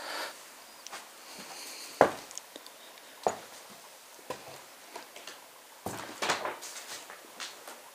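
Scattered knocks and scuffs in a small room, about one a second and unevenly spaced, the loudest about two seconds in, with a quick cluster of clattering knocks around six seconds in.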